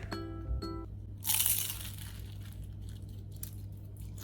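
A bite into a crispy deep-fried turon: its spring-roll wrapper gives one loud crunch about a second in, followed by smaller crackling crunches of chewing.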